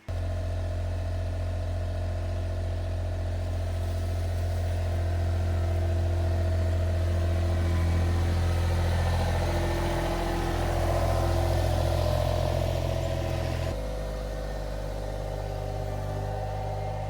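Mini skid steer engine running steadily under work. About fourteen seconds in, the sound drops abruptly to a lower, quieter note.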